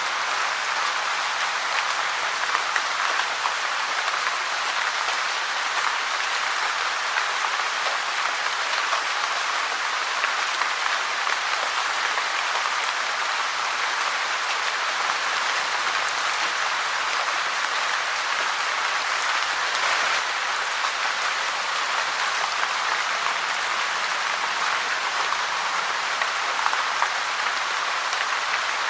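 Steady, even rain falling, a dense patter of drops with no thunder or other events.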